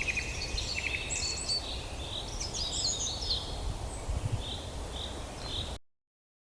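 Several wild birds singing and chirping over a steady low background rumble. It cuts off abruptly near the end, leaving silence.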